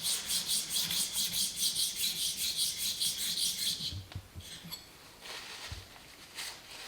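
Steel plane blade rubbed back and forth on an oil stone in quick, even strokes, about five a second: honing off the burr on the blade's flat side. The strokes stop about four seconds in, followed by a few soft knocks.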